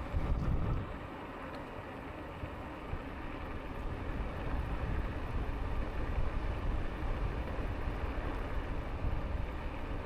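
Wind rushing over the microphone of a rider moving on an e-bike, a steady low rumble with a louder gust in the first second.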